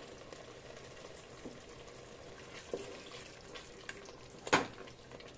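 Masala paste frying in oil with a gentle, steady sizzle in a metal pot while a spatula stirs in dry spice powder. One sharp knock of the spatula against the pot about four and a half seconds in.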